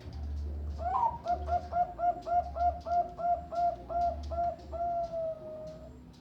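Zebra dove (Bangkok-strain perkutut) cooing: a quick, even run of about a dozen short coos, ending in one long drawn-out note that falls slightly in pitch.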